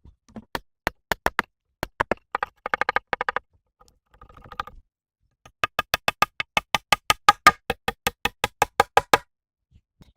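A rapid series of sharp knocks with a ringing tone. An uneven group comes in the first few seconds, then a steady run of about five strikes a second starts a little past the middle and stops near the end.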